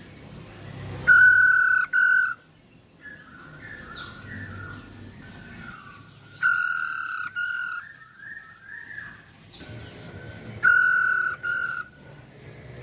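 Female Poksay Hongkong laughingthrush calling: three loud, harsh, held calls of a second or so, each broken by a brief gap, with softer twittering chirps between them.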